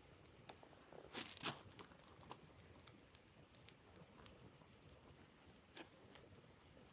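Wood campfire crackling: scattered small pops, with a cluster of louder snaps about a second in and another sharp snap near the end, over a faint steady hiss.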